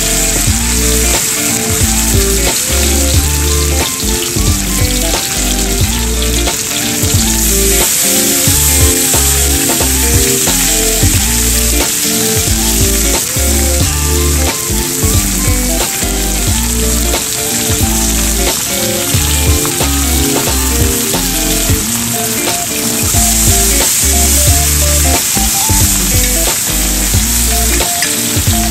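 Food sizzling in a frying pan, a steady crackling hiss that swells twice, over background music with a rhythmic bass line and a melody.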